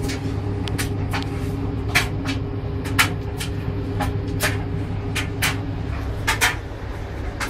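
A steady low mechanical hum with several irregular sharp clicks and knocks over it; the loudest knocks come about two and three seconds in.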